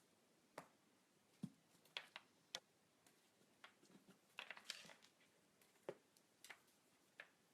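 Quiet room with scattered small clicks and taps, about a dozen at irregular moments, a few of them bunched together in the middle.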